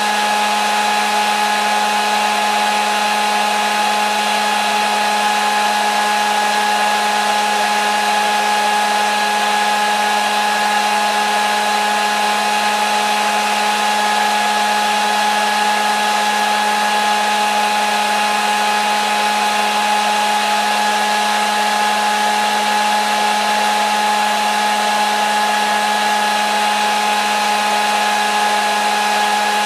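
Hair dryer running steadily, a constant whir of motor hum and blown air with no change in speed.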